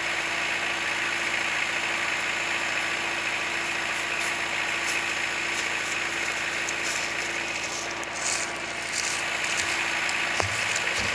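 Kubota L4600 compact tractor's diesel engine running steadily at constant speed, with a few faint clicks and rattles in the second half.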